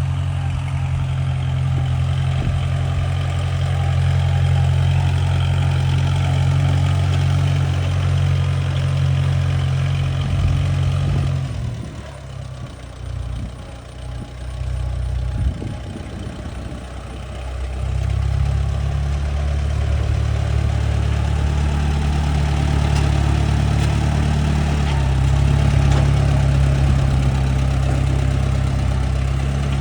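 Oliver 660 tractor engine running steadily. It drops back and goes quieter for a few seconds near the middle, then picks up and runs steadily again.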